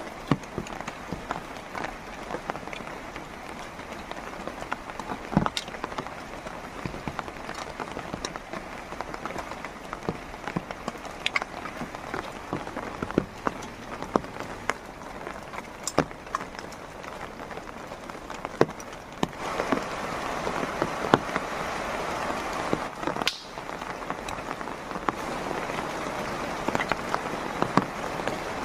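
Heavy rain falling steadily, with many separate drops striking close by; the downpour grows heavier about two-thirds of the way through.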